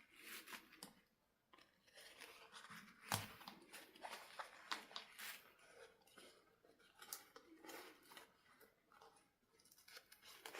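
Faint handling noises: scattered clicks, taps and rustles, with one sharper knock about three seconds in.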